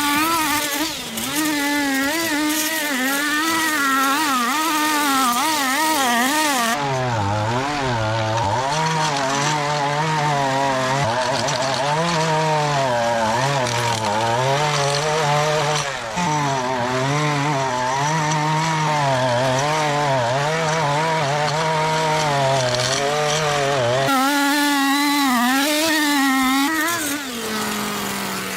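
Small gasoline engines of yard equipment running under changing load, their pitch rising and falling every second or so. A higher-pitched engine gives way to a lower-pitched one about seven seconds in, and the higher one returns near the end.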